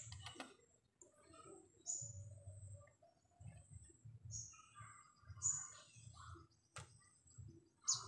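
A small bird chirping: four short, high chirps, each falling in pitch, spaced one to two seconds apart. A single sharp click comes shortly before the last chirp.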